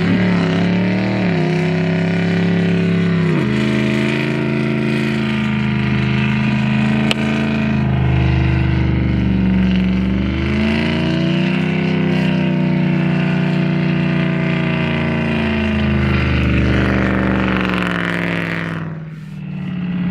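A vehicle engine running hard under load, its pitch rising and falling as the throttle is worked, then easing off near the end.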